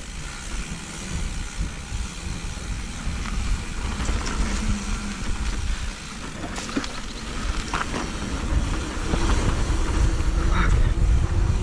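Mountain bike rolling down a rough dirt trail: a steady low rumble of wind on the microphone and tyres on the ground, broken by scattered sharp clicks and knocks of the bike rattling over rocks. The rumble grows louder over the last few seconds as the bike picks up speed.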